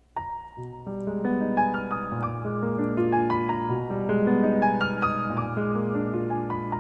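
Piano music starting suddenly just after the beginning: a single high note, then a melody over sustained chords and a low bass line.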